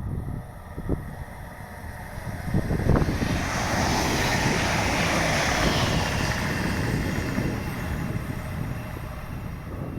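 A train passing at speed: a rushing noise rises sharply about three seconds in, stays loudest for a few seconds, then slowly fades. Wind buffets the microphone underneath.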